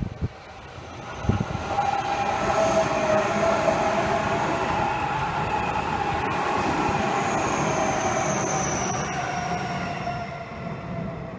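Seibu Railway 30000 series electric commuter train passing on the tracks: the noise swells about a second in, holds steady with a thin whine over the rumble of the wheels, and fades near the end as the last car goes by.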